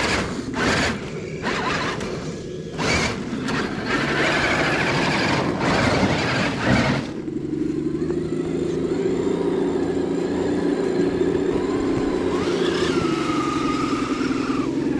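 Electric motor and gearbox of an RC scale crawler truck whining steadily as it crawls, in the second half. Before that, a rushing noise cuts in and out several times.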